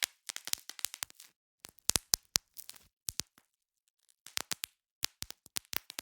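Bubble wrap being popped: quick runs of sharp pops with light crinkling between them, and a pause of about a second midway.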